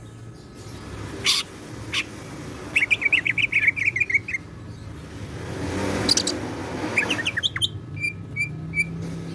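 Cucak ijo (greater green leafbird) singing: a fast run of chirps, then a few rising notes and short whistled notes near the end, with a couple of sharp clicks and a rustling noise in between.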